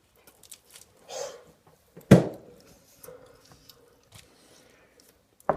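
A man chewing a mouthful of food, with small wet mouth clicks throughout. About two seconds in he makes a loud, short voiced grunt, the loudest sound here, and there is a brief sharp sound near the end.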